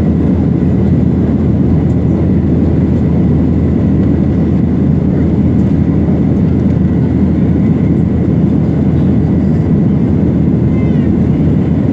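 Airliner engines and airflow heard from inside the passenger cabin under takeoff power: a steady, loud, low rumble with a faint steady whine over it.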